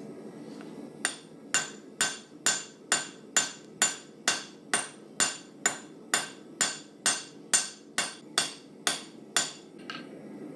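Hammer blows forging hot 1084 carbon steel on an anvil: about nineteen evenly spaced ringing strikes, roughly two a second, stopping near the end, over a steady low rushing noise.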